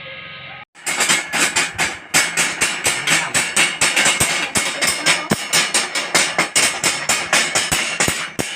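Rapid hammer blows, about five a second in a steady run, starting about a second in, during metal fabrication work.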